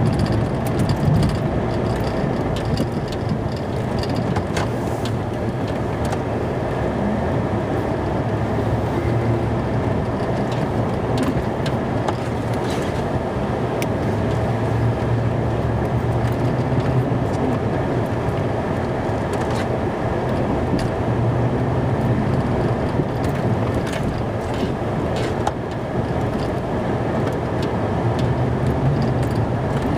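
Snow-plow truck running steadily with a constant low engine and road drone, and a few light clicks scattered through.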